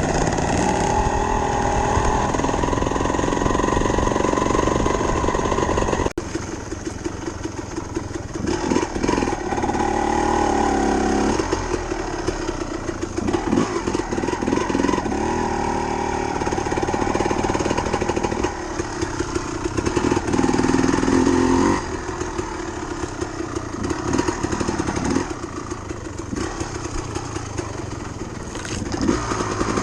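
Dirt bike engine running as it is ridden, the pitch rising and falling with the throttle in repeated surges of a few seconds each.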